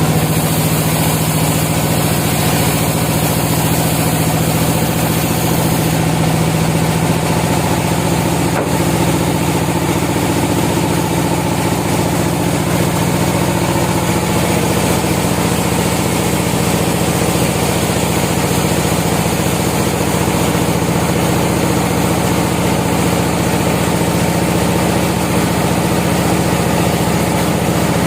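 Sawmill machinery running with a steady, even engine-like hum and hiss.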